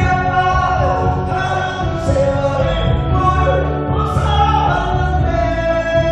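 A song: a sung voice holding long notes and gliding between them over instrumental backing music with a steady bass.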